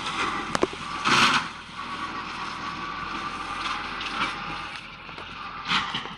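UTB 445 tractor's diesel engine running steadily, with a few sharp clicks and louder rustling bursts about a second in and again near the end.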